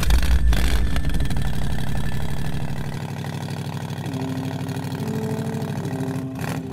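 A car engine running with a low, even pulse, falling in level about three seconds in, as a music melody fades in over it.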